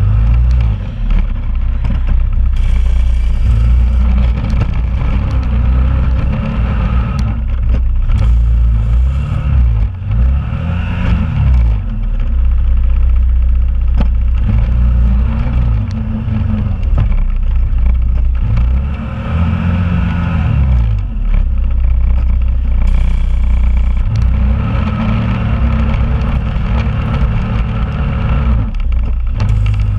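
Honda Rubicon ATV's single-cylinder engine working a snow plow, its revs rising and falling again and again every few seconds as it pushes snow and backs up.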